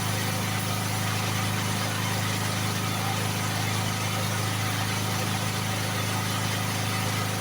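Electric air compressor running steadily to feed a paint spray gun: an even motor hum under a constant hiss of air.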